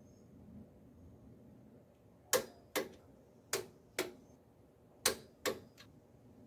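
Torque wrench clicking as bolts are tightened to spec. The sharp clicks come in pairs about half a second apart, three pairs in the second half.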